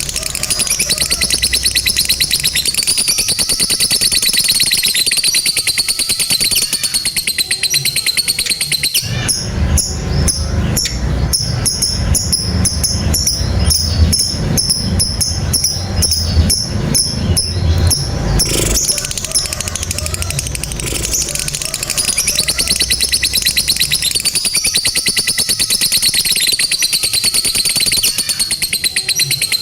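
Lovebird ngekek: a long, fast, high-pitched chattering trill kept up for many seconds at a time. From about 9 to 18 seconds in, it gives way to a coarser run of rapid ticks with low thumping underneath.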